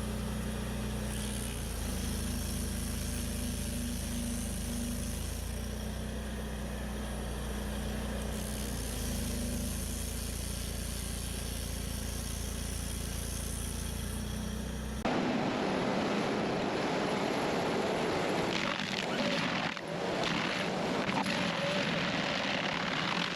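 Heavy machine engine running steadily. About two thirds of the way through it cuts abruptly to a louder, rougher machine sound with a few sharp knocks.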